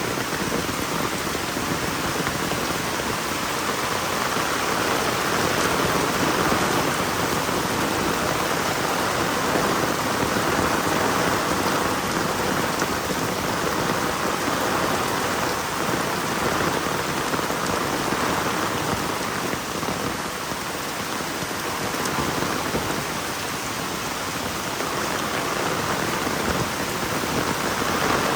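Heavy rain falling steadily: a dense, even hiss of rain on the ground and surfaces, with no break.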